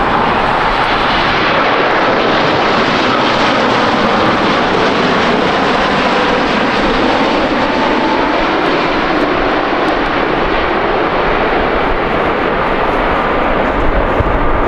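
Jet airliner's engines passing close by: a steady, loud rush of engine noise with a faint whine running through it.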